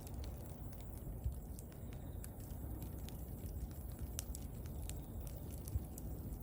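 Bonfire crackling: scattered sharp pops and snaps from the burning wood over a steady low rumble.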